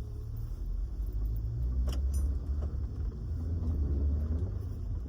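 Car running with a steady low rumble heard from inside the cabin, with a single sharp click about two seconds in.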